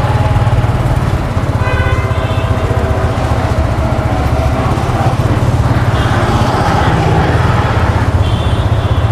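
Suzuki Gixxer FI-ABS single-cylinder motorcycle engine running steadily at a constant speed, with no revving.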